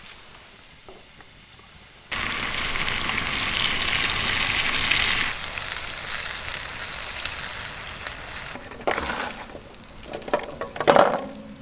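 Spatchcocked piri piri chicken sizzling over a wood fire. The sizzle starts abruptly about two seconds in, is loudest for a few seconds, then settles to a steadier, quieter sizzle. Several metal clanks and knocks follow near the end.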